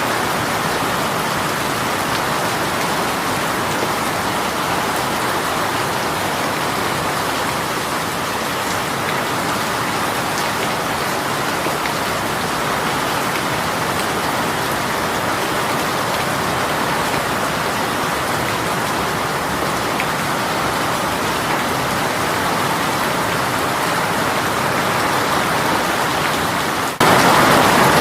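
Steady hiss of a heavy rain shower falling on surfaces, with faint individual drop ticks. Near the end it cuts abruptly to a louder, denser hiss.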